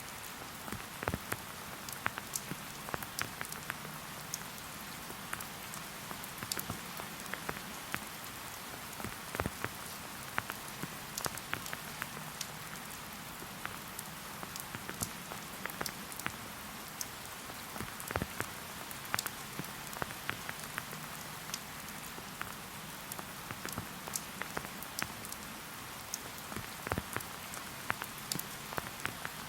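Steady rain falling in a forest: an even hiss with frequent, irregular close drops landing.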